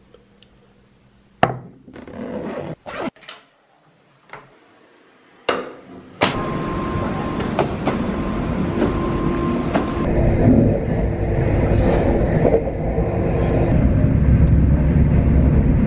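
A few sharp clicks and knocks, then an electric train's steady running noise with a low rumble and a couple of held tones, the rumble growing louder about ten seconds in as the train moves.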